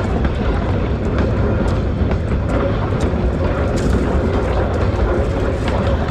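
2000 class diesel railmotor running steadily along the track: a continuous low rumble from engine and wheels, with frequent small clicks and rattles.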